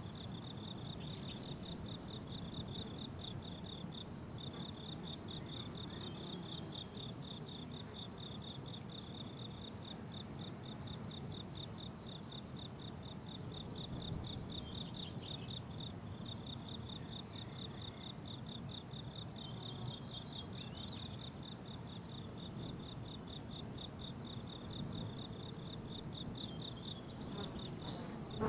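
Crickets chirping on a summer meadow: a rapid, evenly spaced, high-pitched chirping that keeps on with only a few brief pauses.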